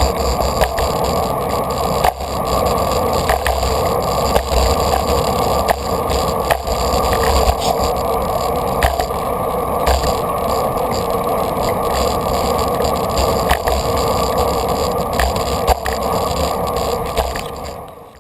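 Steady wind and tyre rumble heard through a GoPro mounted on a moving road bike, with scattered clicks and rattles from the loosely mounted camera. The sound fades out near the end.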